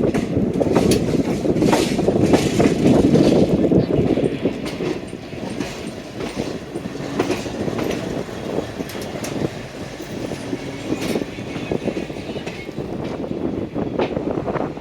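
Passenger train coach running on the rails: a steady rumble of wheels on track with scattered sharp clicks and knocks from the track, loudest in the first few seconds and easing a little after.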